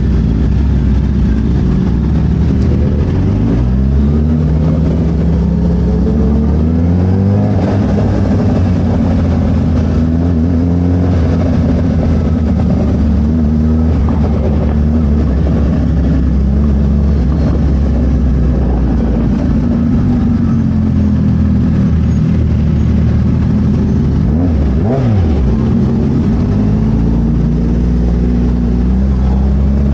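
Suzuki Hayabusa's inline-four engine running through a Brock's full exhaust while riding, loud and steady, with the pitch climbing as it accelerates a few seconds in and again around seven seconds.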